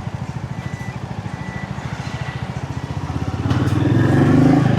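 Motorcycle engine running while riding, its low firing pulse steady, then growing louder about three and a half seconds in as the throttle opens.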